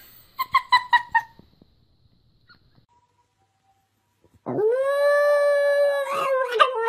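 A dog makes a quick run of short high yips, then after a pause gives one long, steady howl that breaks up into wavering notes at the end.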